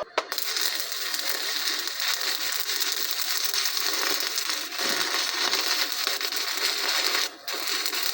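Electric arc welder crackling steadily as a bead is run on a new steel piece on a sprayer's broken folding boom end. The arc stops briefly near the end, then strikes again.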